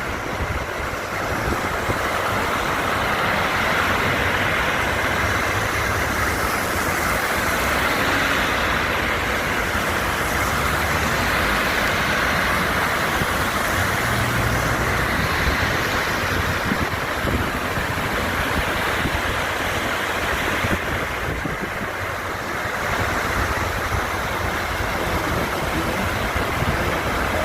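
Steady road noise from a car driving: a continuous, even hiss of tyres and engine that dips briefly about three quarters of the way through.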